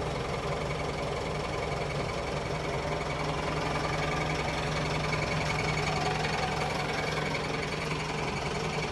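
Vehicle engine idling with the clutch pedal released and the clutch engaged, giving a steady, rapid mechanical clatter: the loud clutch noise that comes in when the pedal is let up.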